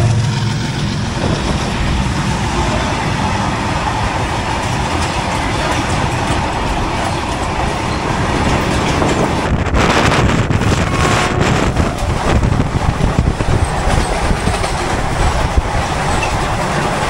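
Passenger express train running on the track, heard from aboard: a steady rumble and rail noise from the coaches' wheels. About ten seconds in there is a brief louder rattle.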